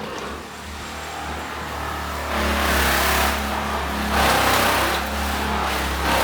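An engine running steadily with a low hum, growing louder from about two seconds in.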